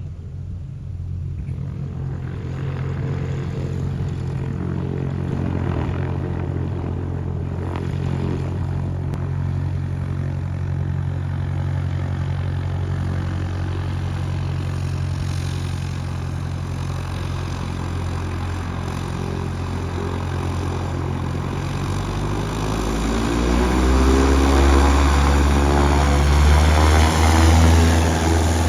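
Cessna 172's propeller engine running steadily, then throttled up about three-quarters of the way through, growing louder with a rising note.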